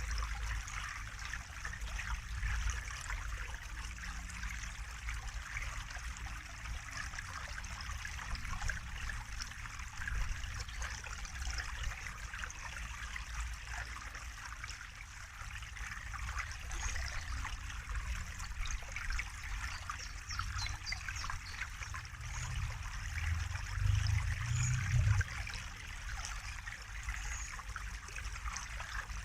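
Water trickling and splashing steadily in a continuous patter of small droplets over a low rumble. The rumble swells for a few seconds about three quarters of the way through.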